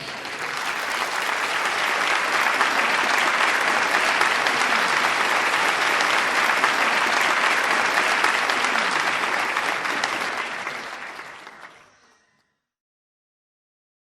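Audience applauding after a song, fading out about twelve seconds in, followed by a brief silence.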